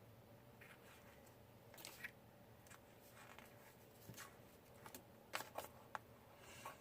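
Faint, scattered light clicks and rustles of paper pieces and stickers being handled on a crafting desk, a little louder about two seconds in and again around five and a half seconds.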